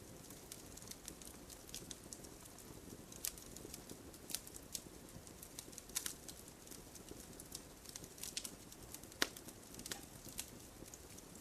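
Wood fire crackling in a fireplace: a steady low rush of flames under irregular sharp pops and snaps, the loudest pop about nine seconds in.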